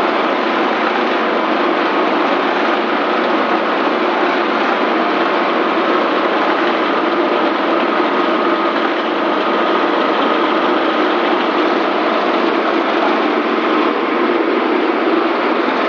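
Banana-stem chopping machine running at a steady, unchanging speed.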